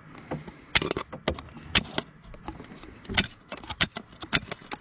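Hammer tapping nails into fibre-cement artificial slate shingles: a dozen or so sharp, irregular taps.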